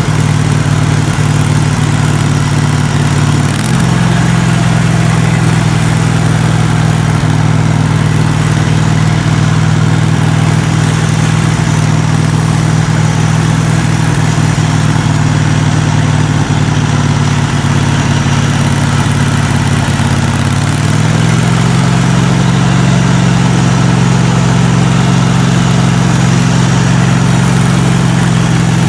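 Modified riding mower's engine running at a steady speed, its pitch stepping up a little about four seconds in and again about two-thirds of the way through.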